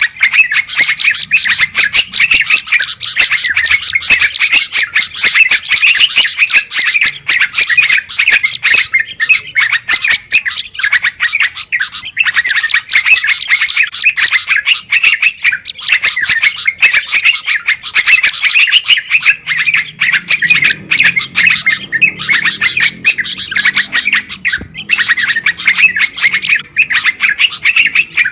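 Loud, dense chorus of many small songbirds chirping and chattering nonstop, an agitated 'noisy birds' commotion. It is the kind of lure call played to draw in wild bulbuls, tailorbirds and similar birds.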